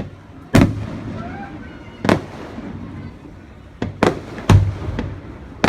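Aerial fireworks shells bursting: about seven sharp bangs that fade out after each, coming closer together in the second half.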